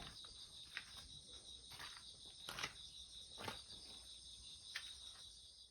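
Faint, steady high-pitched insect chirring, with a few soft clicks about a second apart.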